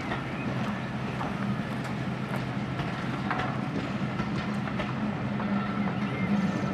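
Diesel locomotive engine running with a steady note, with a few light clicks over it.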